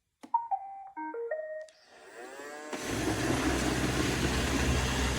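iRobot Roomba 692 robot vacuum starting a clean: a button click, then its short start-up tune of stepped beeps. The motor then whines up in pitch and settles, about two and a half seconds in, into the steady hum and whoosh of the vacuum and brushes running.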